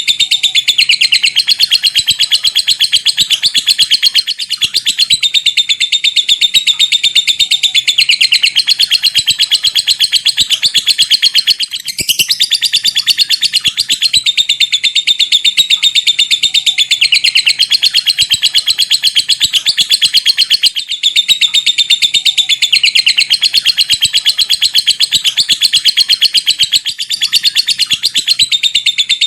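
Lovebird giving its long 'ngekek' chatter: a rapid, unbroken stream of high-pitched chirps fast enough to sound like typing, broken only by a few brief pauses.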